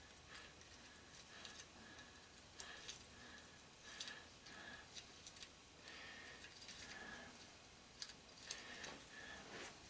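Faint, irregular small clicks and light metallic ticks from hand tools working on an electric motor's housing.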